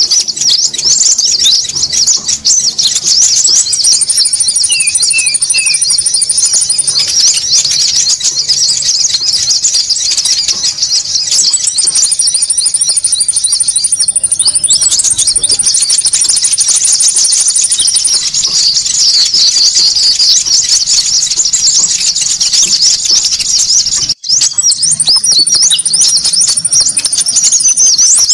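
Bird-lure recording of konin calls: a dense, continuous chatter of many high-pitched chirps, overlapping as if a flock is calling at once. Several times it is joined by a steady high trill lasting about two seconds, and there is a split-second break near the end.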